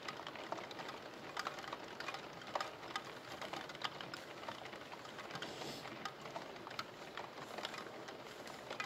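Rain falling, an even hiss with irregular drops tapping sharply on a hard surface.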